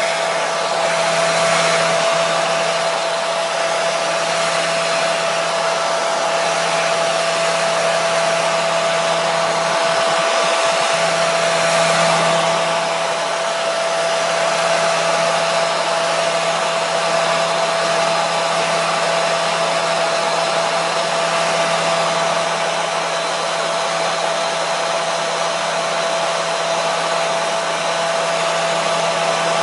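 Hair dryer running steadily: an even rush of blowing air with a constant motor hum and a steady whine.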